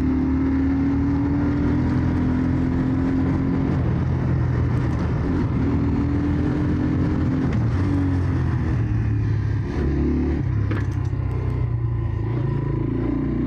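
Jawa 125 Dakar enduro motorcycle's engine running while riding, its pitch rising and falling several times with the throttle.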